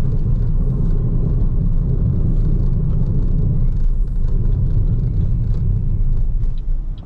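Steady low rumble of road and wind noise from a BYD Seagull electric car on the move, with no engine sound; it eases slightly near the end.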